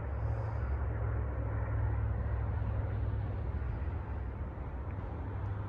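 Steady low outdoor rumble with a faint hiss, unchanging throughout.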